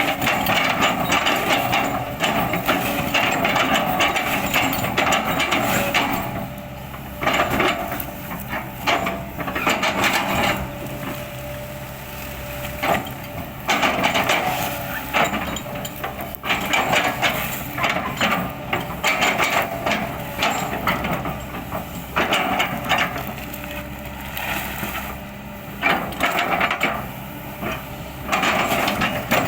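Kobelco excavator running as its bucket chops and crushes an oil palm trunk: the engine hums steadily under repeated bursts of crackling, splintering wood, with quieter gaps between them.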